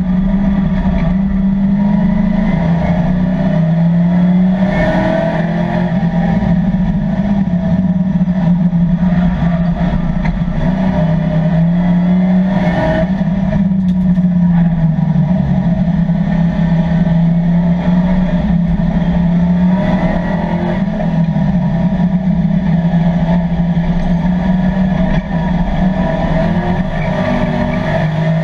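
Race-prepared Chevrolet Camaro's LS3 V8 engine at full racing effort, heard from inside the cabin. The engine note climbs and drops over and over as the car accelerates out of corners and slows into them.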